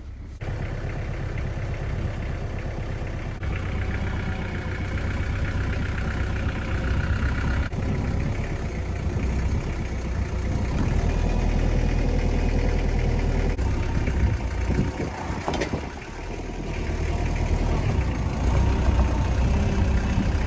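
Diesel-type vehicle engine running while clearing snow, its level rising and falling as it works, with a step up in loudness about half a second in and a brief dip near the end.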